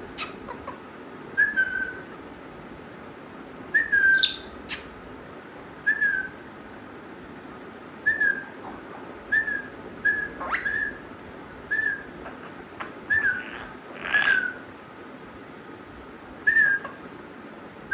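Pet parrot whistling the same short, slightly falling note over and over, about every one to two seconds, with a few sharp clicks and harsher, noisier calls mixed in.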